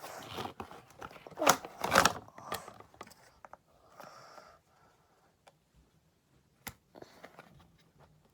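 Packaging being handled during a toy unboxing: rustling and crinkling, loudest in two bursts around one and a half and two seconds in, then mostly quiet apart from a single sharp click later on.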